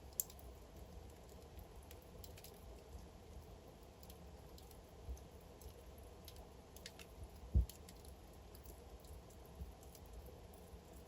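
Wood fire burning in a fireplace, crackling faintly over a low steady rumble, with scattered sharp pops of the burning logs. A crisp snap comes right at the start, and a louder low thump about seven and a half seconds in.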